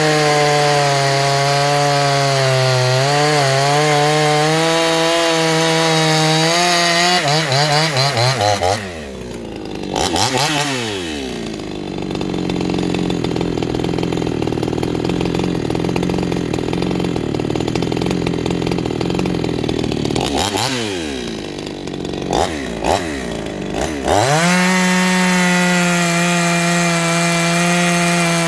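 58cc Chinese two-stroke chainsaw at full throttle cutting wood. It drops to idle about nine seconds in and idles with a few quick blips of the throttle. Near the end it opens back up to full revs for another cut.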